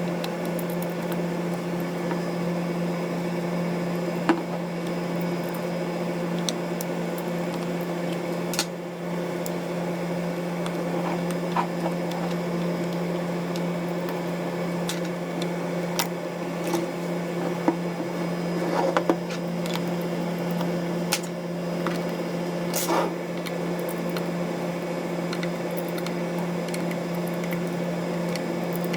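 Steady electrical hum in a small room, with scattered light clicks and taps from small tools and parts handled during a camera disassembly.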